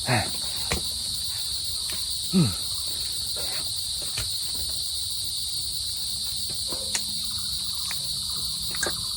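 Steady high-pitched insect chorus in tropical mountain forest, an unbroken shrill drone. A few short clicks and knocks sound over it, with a brief low falling sound near the start and a louder one about two and a half seconds in.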